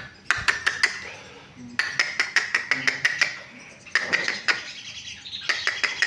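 Sogon (crested jay) calling: runs of sharp, rapidly repeated clicking notes with a ringing edge, in four bursts of about half a second to a second and a half each.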